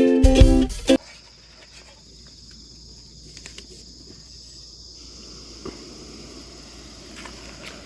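Plucked-string music that stops about a second in, followed by a steady high-pitched insect chirring with a few faint clicks.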